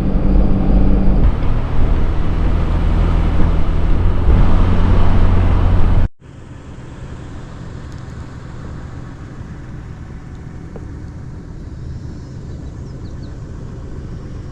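A car running, with a steady low engine drone and road noise. About six seconds in it cuts suddenly to a quieter, steady low hum.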